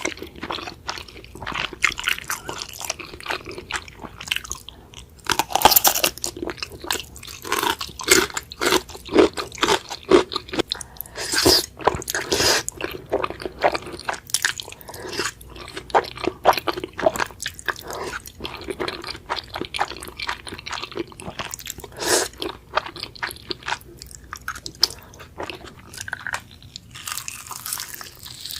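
Close-miked eating: a person biting into and chewing crunchy food, with a steady run of crisp crackles and crunches.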